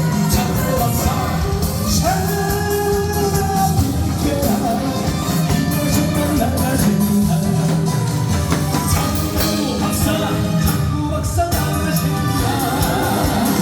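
A man singing a song live over loud backing music.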